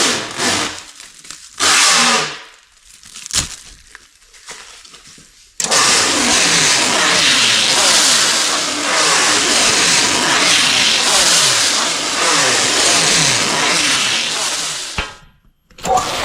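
A few knocks of firewood being handled, then an electric firewood bundler starts suddenly and runs steadily for about nine seconds, its motor and turning parts sweeping in pitch over and over as it wraps the bundle. It stops near the end.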